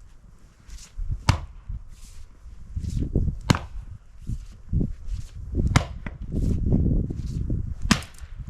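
Axe striking firewood four times, a sharp crack about every two seconds, with rough scuffing and rumbling in between.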